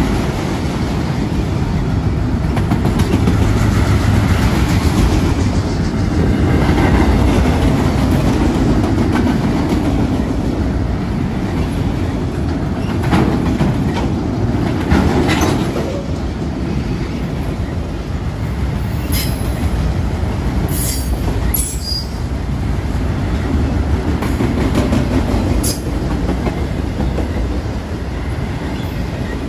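Autorack freight cars rolling past: a steady rumble of steel wheels on rail with clickety-clack over the joints. In the second half come a few brief, high-pitched wheel squeals.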